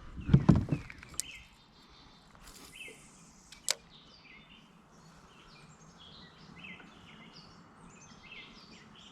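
A few dull thumps near the start, then birds chirping repeatedly over steady outdoor background noise, with a single sharp click a few seconds in.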